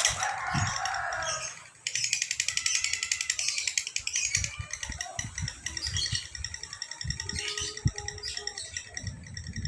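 Lovebird singing a long, rapid chattering trill of fine repeated notes. It breaks off briefly just under two seconds in, then runs on.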